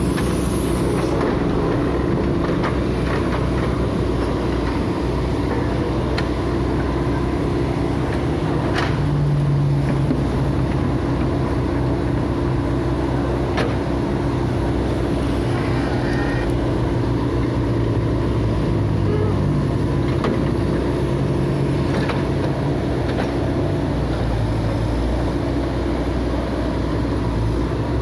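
Heavy earthmoving machine's diesel engine running steadily, with a few sharp knocks now and then.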